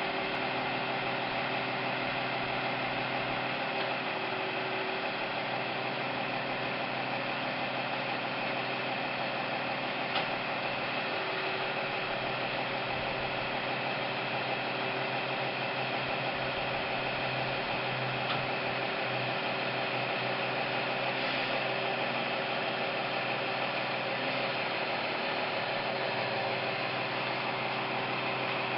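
An engine running steadily at a constant speed, a continuous drone with a steady hum.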